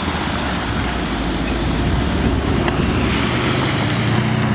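A car engine running steadily, with wind rushing over the microphone; the engine note firms up slightly about three seconds in.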